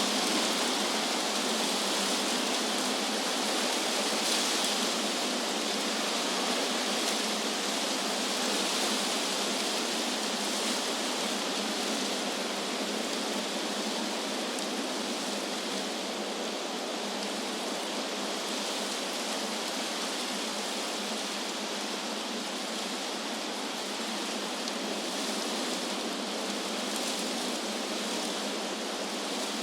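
Wind through trees: a steady rushing hiss of leaves that swells and eases gently.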